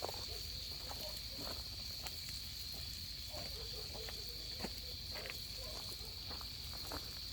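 Steady chorus of crickets, a continuous high trill, with faint scattered crackles and clicks from the wood fire and grill.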